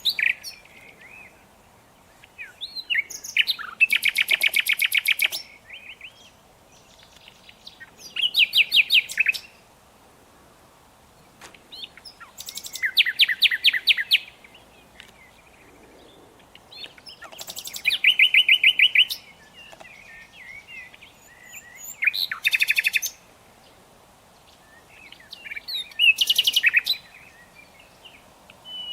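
A nightingale singing: short phrases of rapid repeated notes about every four to five seconds, with quiet pauses between.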